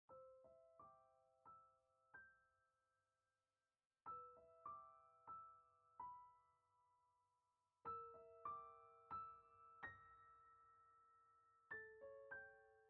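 Quiet solo piano background music: slow, gentle phrases of a few notes each, every note struck and left to ring out, with a new phrase starting about every four seconds.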